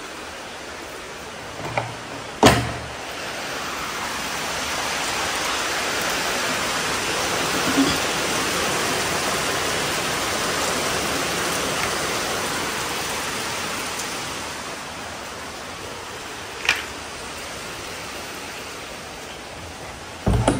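Heavy rain falling in a steady hiss that swells louder for several seconds in the middle and eases back. A few sharp knocks cut through it, the loudest about two and a half seconds in.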